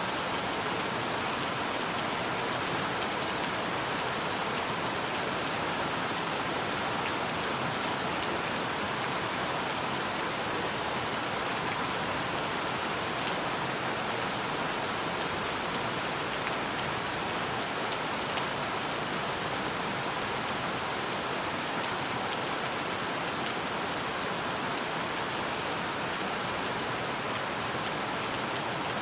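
Steady rain falling: an even, unbroken hiss with scattered small drop ticks.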